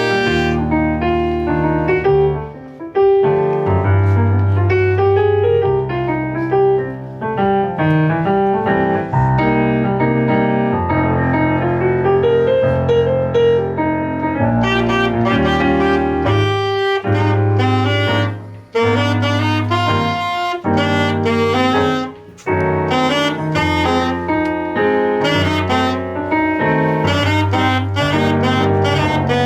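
Instrumental jazz with saxophone carrying the melody over piano and a bass line.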